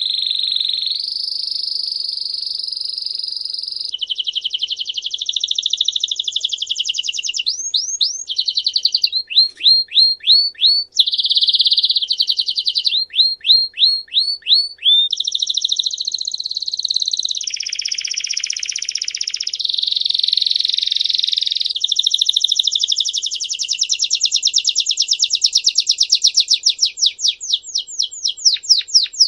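A songbird singing a loud, continuous song of fast trills and rapidly repeated high notes, switching to a new repeated phrase every second or two.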